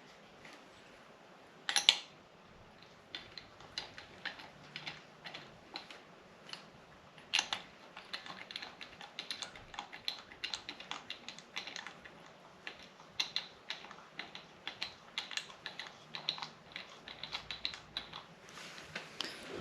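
Quick, irregular metallic clicks and taps of hand tools at work on an engine block while knock sensors are fitted, with a louder clank about two seconds in and another about seven seconds in.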